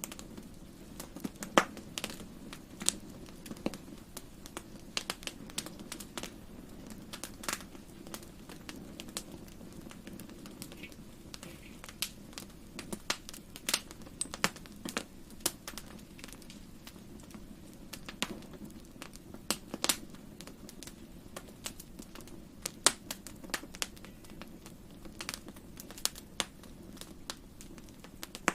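Fire burning in a fireplace: irregular sharp crackles and pops, several a second, over a steady low rumble of flames.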